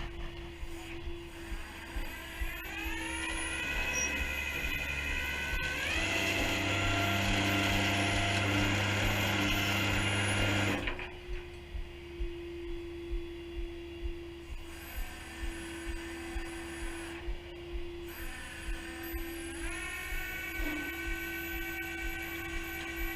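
Tow truck's winch running as it pulls the dead Volvo on its cable: a rising motor whine that grows louder under load and stops suddenly about eleven seconds in, then starts up and rises again near the end. A steady hum with light regular clicks runs underneath.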